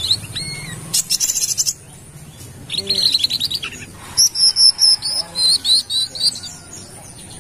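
Sunbird (kolibri kelapa) singing: bursts of fast, high-pitched trills, then a run of sharp high chirps, in several short phrases with brief gaps.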